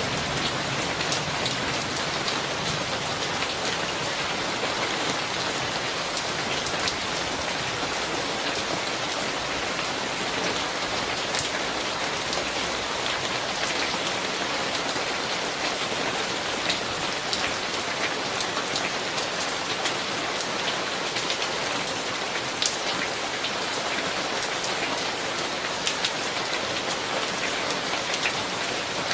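Steady heavy rain falling during a summer thunderstorm, with many individual drops ticking sharply on nearby surfaces. No thunder is heard.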